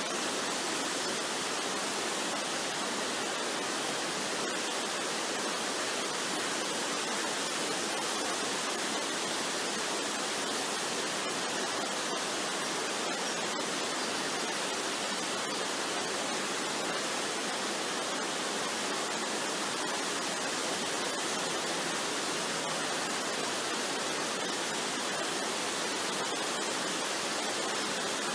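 Waterfall rushing, a steady even roar of falling water with no change throughout.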